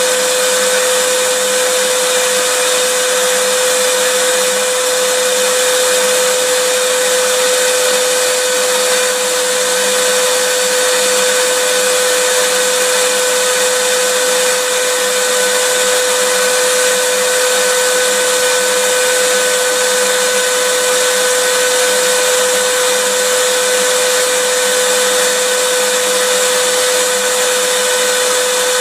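Vacuum cleaner running continuously at a steady speed: an even rushing hiss with a constant motor whine.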